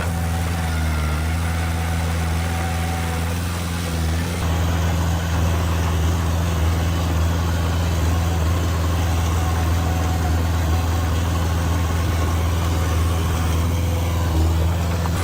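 Heavy diesel engine of earthmoving machinery running steadily with a low hum, getting louder about four seconds in.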